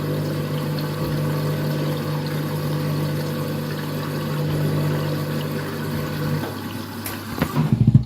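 Overloaded washing machine running with a steady motor hum. About six seconds in the hum stops, followed by a few knocks and a short clatter before the sound cuts off suddenly.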